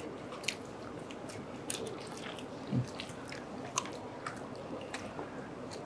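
Close-up chewing and biting of food, with scattered small clicks of forks against foil takeaway trays.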